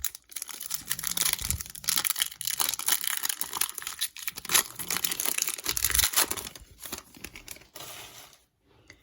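A foil trading-card pack being torn open, with crinkling and crackling wrapper sounds that die away about a second before the end.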